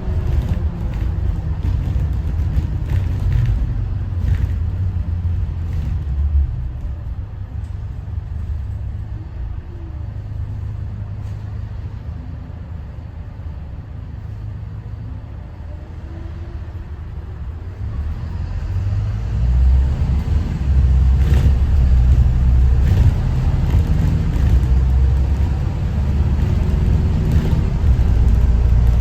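School bus diesel engine and road rumble while driving. The engine eases off through the middle and pulls hard again for the last third, its pitch gliding as it goes.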